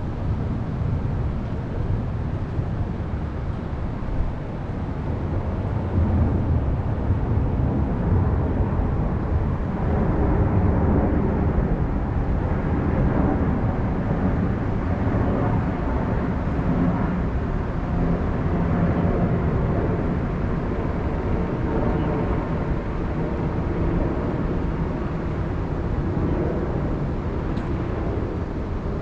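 Wind buffeting the microphone, a steady low rumble. From about ten seconds in, a faint pitched hum rises above it.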